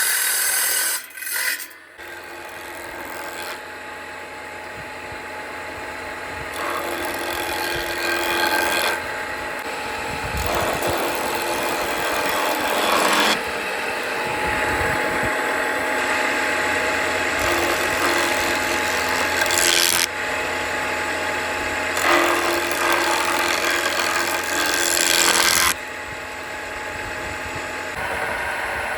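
Homemade electric woodworking machine running and working on wood, with its sound changing abruptly every few seconds.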